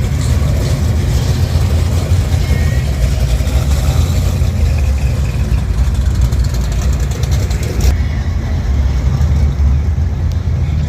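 A hot-rod car engine idling with a deep, steady low rumble. A higher hiss cuts off suddenly about eight seconds in.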